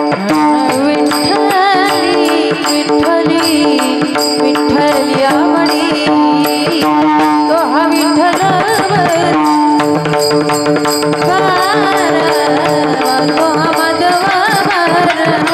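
Devotional kirtan music: held sustained notes under a steady drum beat, with a wavering, ornamented melody line coming in about halfway through.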